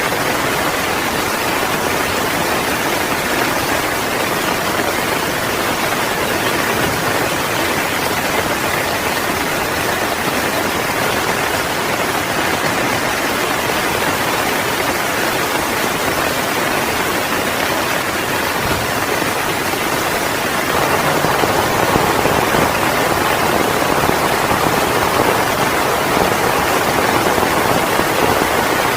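Heavy rain falling steadily, growing heavier about three quarters of the way through.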